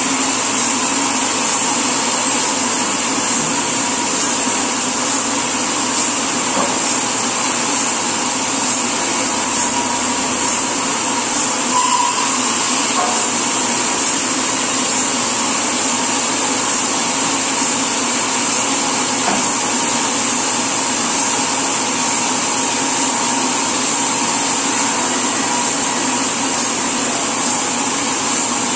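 Sawmill machinery running steadily: a constant loud mechanical noise with a high hiss over it, unchanging throughout.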